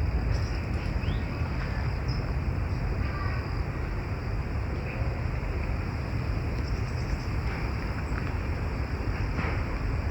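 Steady outdoor rushing noise, heaviest in the low end, with a few faint, short bird chirps over it.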